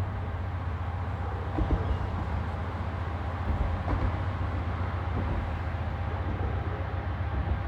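Freight train rolling past at a crawl: a steady low rumble with faint knocks from the cars.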